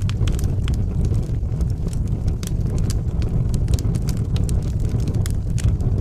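Wood fire burning in a fireplace: a steady low roar of flame with frequent sharp, irregular crackles and pops.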